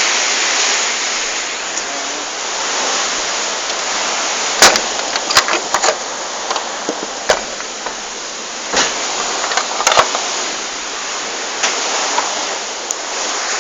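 Strong storm wind rushing steadily, with a high, hissing sound and little low rumble. Sharp knocks and clatters come now and then from about a third of the way in.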